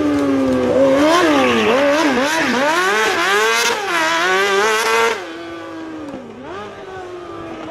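High-revving motorcycle engine in a go-kart, its note rising and falling repeatedly as it is driven hard. About five seconds in, it becomes suddenly quieter and steadier.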